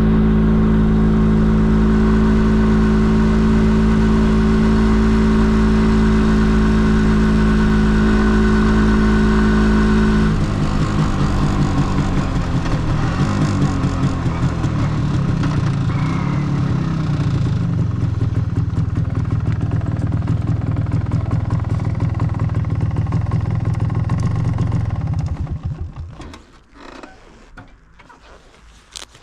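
MZ ETZ 250's single-cylinder two-stroke engine running through its original exhaust at a steady, higher speed. About ten seconds in, it drops to a lower, uneven running note. Near the end it dies away, leaving only a few clicks.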